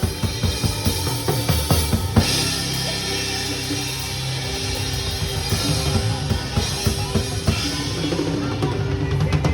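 Drum kit played along with a recorded song: bass drum, snare and cymbals in a steady groove, with a cymbal crash about two seconds in.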